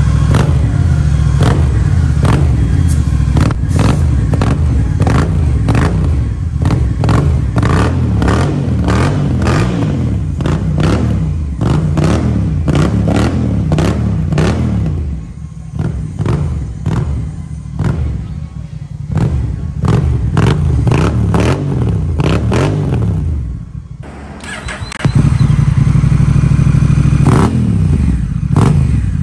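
Honda Rebel 1100's parallel-twin engine revved over and over through an aftermarket racing-type dual-side exhaust, pitch rising and falling with each blip, with many sharp cracks between revs. It settles lower for several seconds past the middle, then is loud again near the end.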